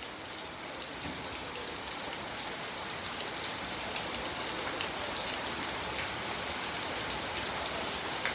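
Heavy rain falling steadily, a dense hiss of drops striking surfaces with fine individual ticks, growing slightly louder toward the end.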